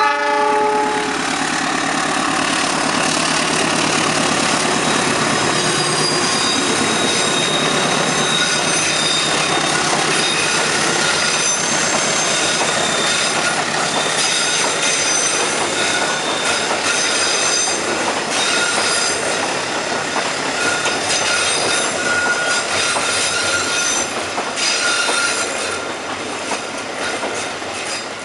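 Passenger train passing close by behind a diesel locomotive. A short horn note dies away right at the start and the engine is heard in the first few seconds. After that the carriages roll past with steady rail noise and high-pitched wheel squeal, easing off slightly near the end.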